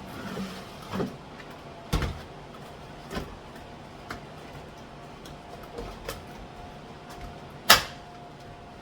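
Spice jars and containers being handled and set down, a series of light knocks and clicks with one louder knock near the end, over a faint steady hum.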